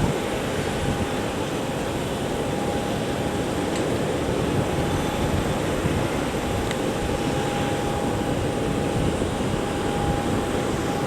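Airbus A340-300's four CFM56 jet engines running steadily, a constant whine over an even rumble and hiss with no rise or fall in power.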